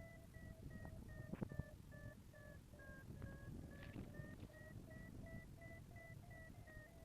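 Paragliding variometer beeping, about three short beeps a second, its pitch dipping a little midway and then rising again: the vario's audio signal that the glider is climbing in lift. Low wind rumble on the microphone underneath.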